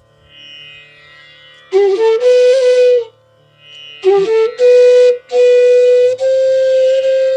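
Bansuri, the North Indian bamboo flute, playing two phrases of a raga over a soft drone. Each phrase starts low and slides up to a held note, and the second settles into a long sustained note.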